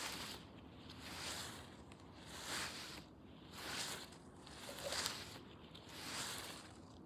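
Soft, even swishing noise that swells and fades in a steady rhythm, about one swish every second and a quarter.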